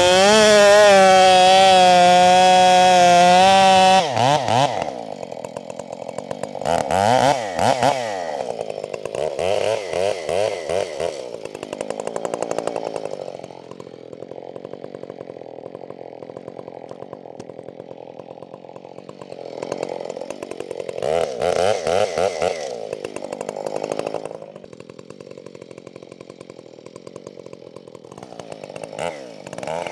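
Husqvarna 572 XP two-stroke chainsaw held at high revs for about four seconds, then dropping abruptly to a low, steady run. The engine revs up and down twice, about a third of the way in and again about two-thirds through, and picks up again right at the end.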